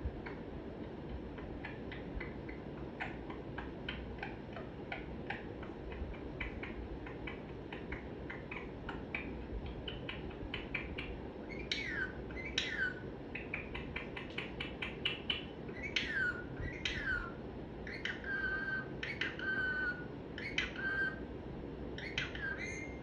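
Pet parrot making a run of soft quick clicks, then whistling and chirping over the second half in repeated short calls that sweep down in pitch.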